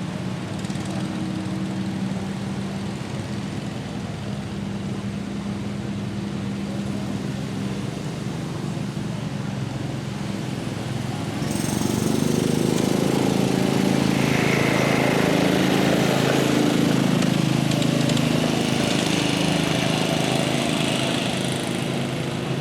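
Small garden tractor engines running. About halfway through, a louder engine takes over and runs hard, then eases off slightly near the end.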